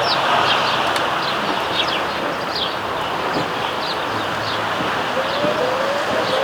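A group of sparrows chirping, short sharp chirps about twice a second, over a steady hum of traffic. From about five seconds in, a lower engine note rises in steps.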